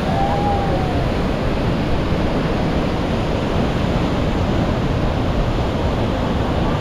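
Floodwater released through open dam spillway gates, rushing and falling in a loud, steady wash of noise.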